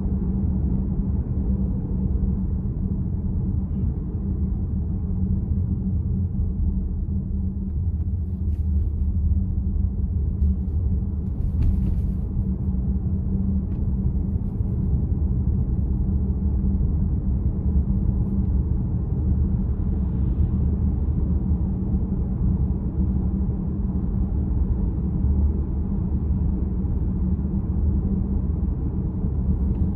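Steady low road-and-tyre rumble inside the cabin of a moving VW ID.4 electric car.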